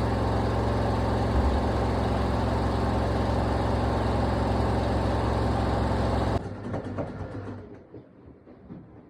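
Old LG washing machine spinning, a loud steady hum of motor and drum. About six seconds in the drive cuts off suddenly, and the drum coasts down with a quieter rumble that fades.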